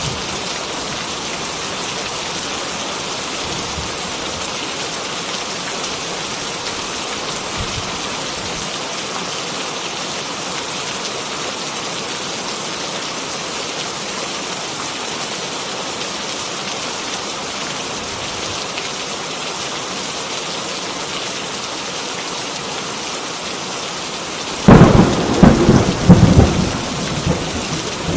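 Heavy rain falling steadily, with a loud crack and rumble of thunder about three seconds from the end.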